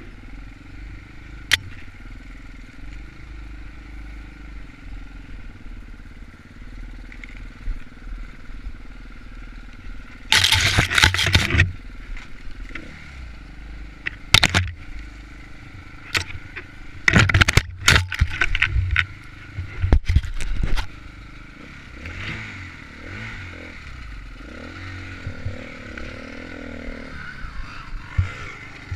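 Enduro dirt bike engine running, its revs rising and falling as it is ridden over rough ground. Through the middle comes a series of loud, sharp knocks and clatters.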